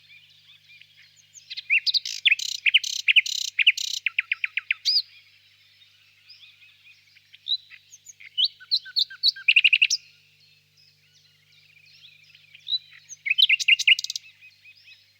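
Nightingale singing: three separate song phrases of fast repeated notes and whistles, each a few seconds long, with pauses between them.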